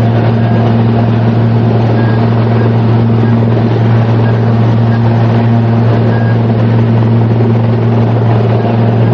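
A machine running steadily, with a loud, even low hum under a wash of mechanical noise.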